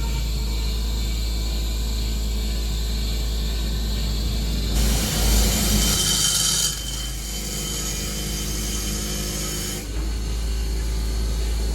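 A power tool running as it works on metal parts. Its sound shifts a few times and is loudest and hissiest for about two seconds in the middle.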